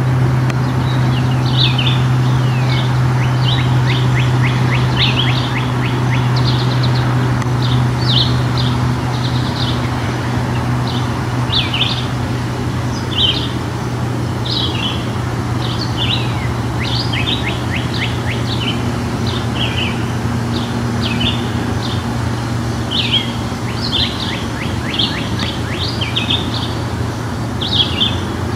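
Songbirds chirping and singing in short bright phrases, some as quick runs of falling notes, scattered throughout, over a steady low hum.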